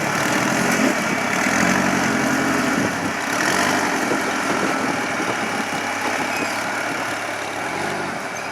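Off-road rock crawler's engine running, its pitch rising and falling a little as it is worked.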